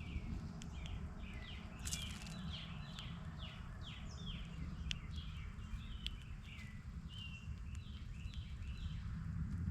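Songbirds chirping, a continual run of short notes that each slide downward in pitch, several overlapping, over a steady low rumble.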